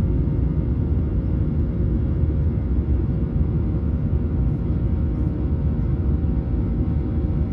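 Boeing 737-800 engines running, heard from inside the passenger cabin as a steady low rumble with a faint hum on top.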